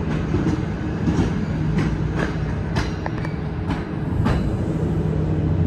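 NJ Transit passenger coaches rolling past, wheels clacking over rail joints every half second or so. The clacks stop about four seconds in, leaving a steady low hum.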